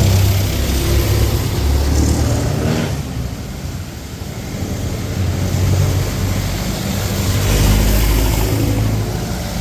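Road traffic: motor vehicle engines running and passing close by, a low engine hum that swells and fades, loudest about eight seconds in.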